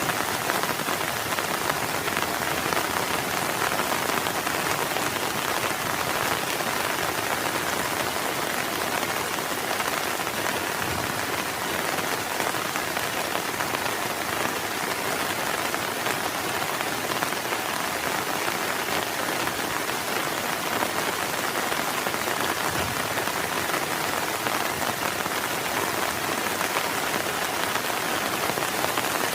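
Heavy rain falling steadily, an even hiss of drops with no let-up and no thunder.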